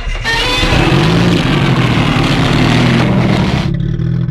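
Nissan Skyline R32 GT-R's RB26DETT twin-turbo straight-six starting up through a loud Group A exhaust: it catches, flares up in revs, then drops to a rough idle about three and a half seconds in.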